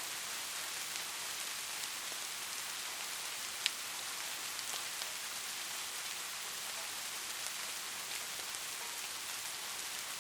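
Steady rain, a continuous hiss with scattered individual drops ticking on a surface; one sharper drop stands out about a third of the way in.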